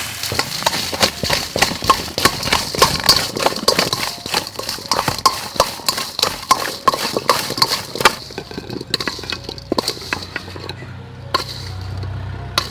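Close-up crunching of crisp food being chewed, likely governor plums or crispy shrimp: many sharp, irregular crackles and clicks, thinning out after about eight seconds.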